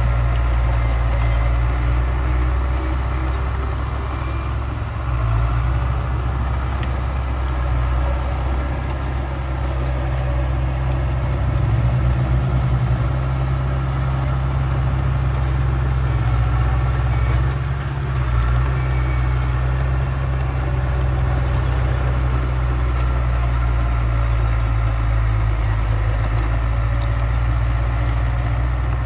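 Heavy-machinery diesel engine running steadily with a low, constant hum, its note shifting briefly a few times as the load changes.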